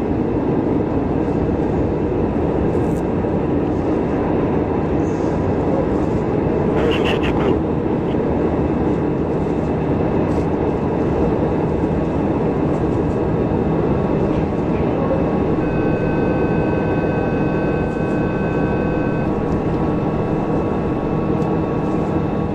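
Soyuz-FG rocket in powered ascent: a steady, unbroken roar with no change in level. A few steady high tones sound together for about three seconds past the middle.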